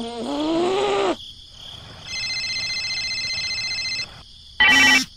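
Cell phone ringtone sound effect: a trilling electronic ring for about two seconds, then two short, loud ring bursts near the end. It is preceded by a brief gliding, voice-like cartoon squeak in the first second.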